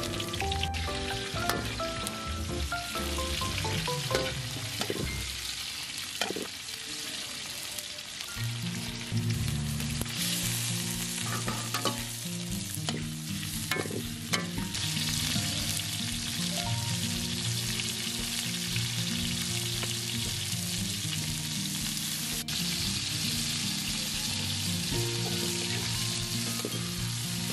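Chicken stir-fry sizzling in a hot pan while it is stirred, the sizzle getting louder about ten seconds in, with a few knocks of the utensil against the pan.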